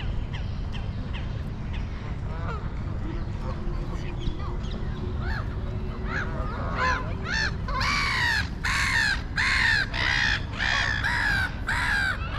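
A bird calling over and over in harsh calls that rise and fall in pitch. The calls are faint and spaced at first, then loud and quick, about two a second, over the second half.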